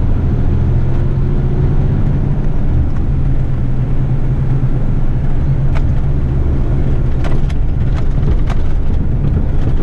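Diesel engine of an eight-wheeler twin-steer rigid truck running steadily on the move, a deep drone heard from inside the cab. A few short sharp clicks come in the second half.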